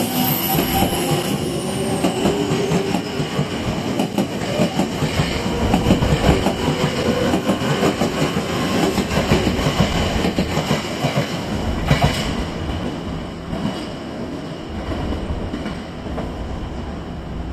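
Electric commuter train with GTO-VVVF inverter drive pulling out and passing close by: wheels rumble and clack over the rail joints, loudest in the middle, then fade near the end. Faint tones rise and fall in the first couple of seconds.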